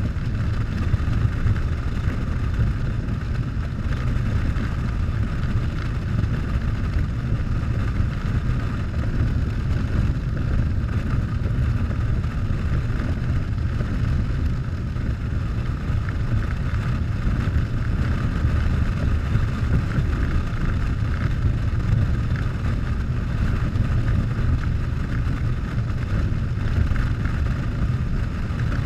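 Harley-Davidson Softail V-twin engine running steadily at cruising speed, with wind rushing over the microphone.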